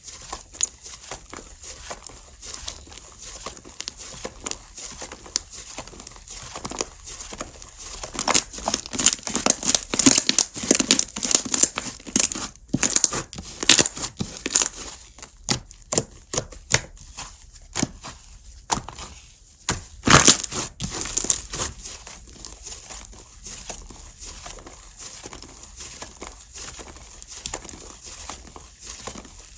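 Slime being squished, stretched and pressed by hand, making many small crackling pops and sticky clicks at an uneven pace. The handling is busiest and loudest from about a third of the way in to past the middle, pauses briefly, then picks up with a loud press and carries on more softly.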